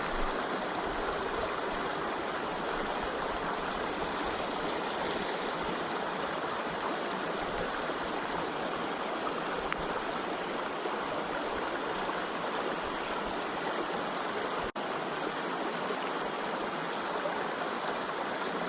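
River current rushing steadily, a fast, flood-swollen flow, with a momentary break about fifteen seconds in.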